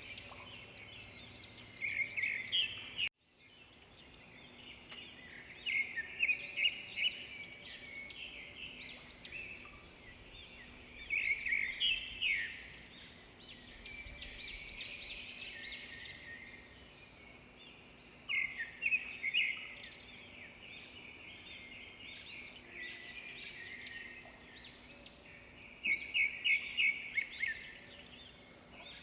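Birdsong: a loud phrase of quick repeated chirps comes about every six to seven seconds, five times in all, over steady lighter chirping from other birds. The sound briefly cuts out about three seconds in.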